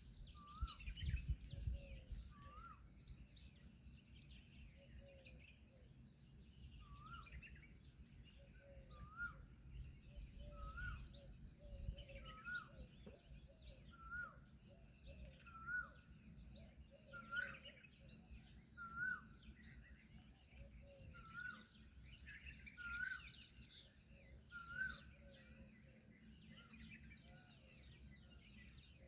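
Small birds chirping faintly: short hooked calls repeat about once a second, with higher, quicker chirps over them.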